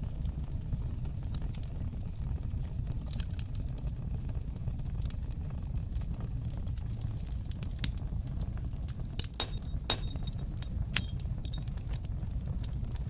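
Wood fire burning in a fireplace: a steady low rumble of flames with scattered sharp crackles and snaps, and a few louder pops about three-quarters of the way through.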